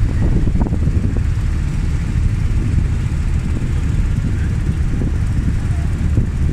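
Tour boat's engine running steadily under way, a low even rumble mixed with wind buffeting the microphone.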